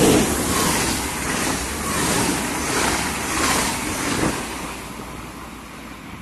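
NS double-deck passenger train passing close by a platform at speed: a loud rush of wheels and air that swells and eases several times, loudest at first and fading as the train pulls away.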